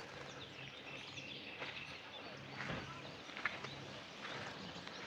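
Faint outdoor ambience: scattered bird chirps over a low steady hum, with a single short tick about three and a half seconds in.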